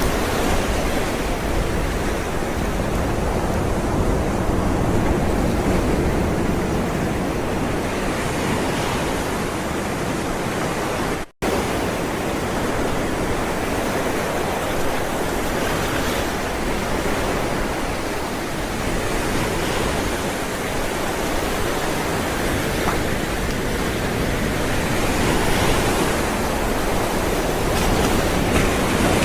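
Ocean waves rolling and breaking: a continuous rush of surf that swells and eases every few seconds. The sound cuts out for a split second about eleven seconds in.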